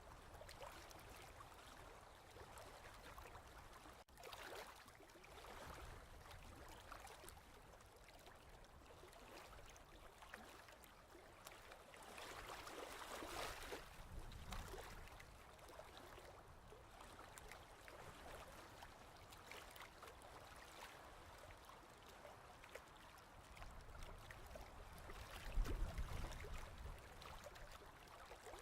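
Faint ocean waves washing, an even hiss that swells about twelve seconds in, with a low rumble of a wave near the end.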